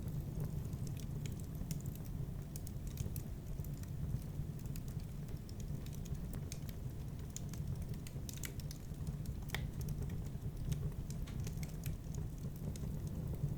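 Wood fire burning in a fireplace: a steady low rumble of flames with scattered, irregular crackles and pops, one sharper pop about two-thirds of the way through.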